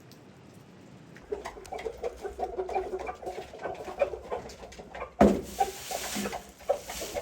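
Chickens clucking: a quick run of short clucks that starts about a second in. A sharp knock comes about five seconds in.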